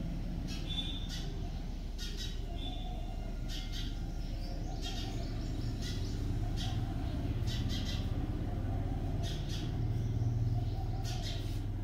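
Birds chirping, short high calls repeating in scattered clusters, over a steady low hum.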